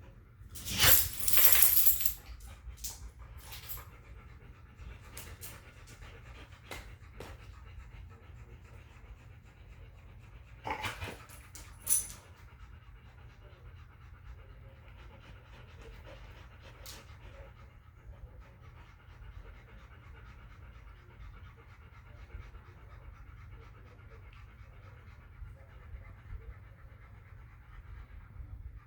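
Dogs panting steadily while they play, with a loud burst of knocks and clatter about a second in and another around eleven seconds in.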